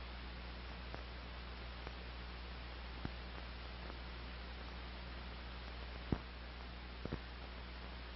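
Steady hiss and low mains hum from an old film soundtrack, with a few faint clicks and pops scattered through it.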